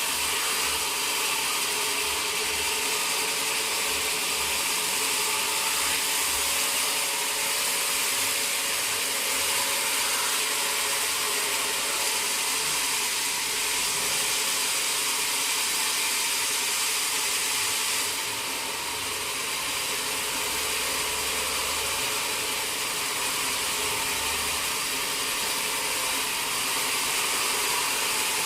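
Sawmill machinery running steadily, a constant high-pitched noise with no distinct strikes, dropping a little in level about two-thirds of the way in.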